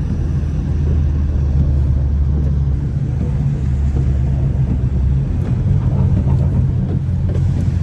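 Engine and exhaust drone of a 2015 BMW 328i (F30), with its turbocharged four-cylinder and aftermarket downpipe, heard from inside the cabin while driving. It is a steady low drone that shifts a little about five seconds in.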